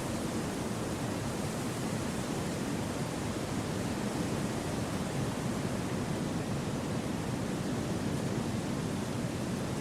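Wind rushing steadily through forest trees: a deep, even rush with no gusts, rises or separate sounds.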